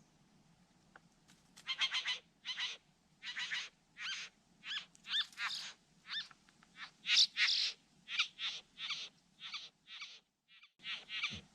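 A bird giving a rapid run of about two dozen short, harsh, nasal calls, roughly two a second, starting about two seconds in.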